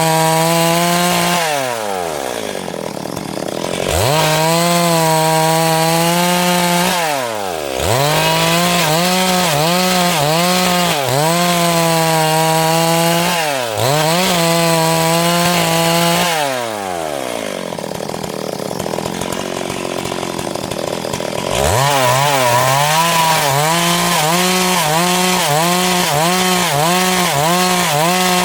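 Two-stroke chainsaw ripping lengthwise through a log to mill lumber. It runs at high revs with a wavering note as it bites into the wood, falls back toward idle four times, and revs up again each time. Near the end the pitch dips and recovers about once a second under load.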